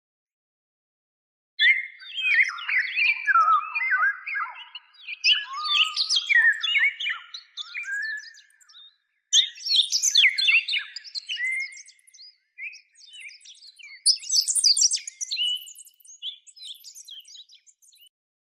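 Parrot calling in long runs of fast chirps and whistles, starting about a second and a half in, with a brief pause about halfway through.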